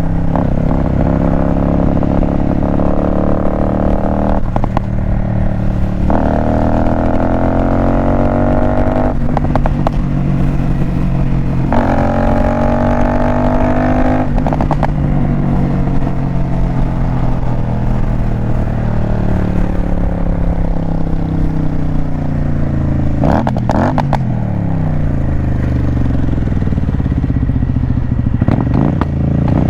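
Motorcycle engine accelerating hard through the gears on a highway, its pitch climbing in several stretches, each broken by a short gap at a shift. Later the revs hold steadier, then briefly drop and climb again.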